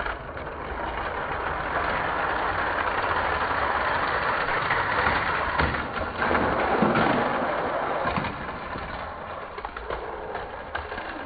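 Hot Wheels diecast cars rolling down a plastic track in a race, a continuous rolling rumble that swells over the first couple of seconds and fades over the last few.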